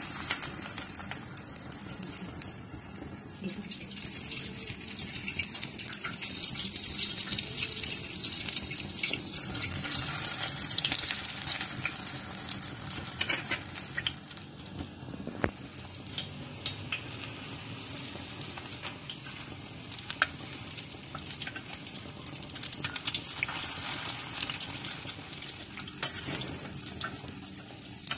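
Breaded chicken and rice croquettes sizzling and crackling as they shallow-fry in hot oil in a wok. The sizzle starts abruptly as the first croquette goes into the oil and is louder in the first half.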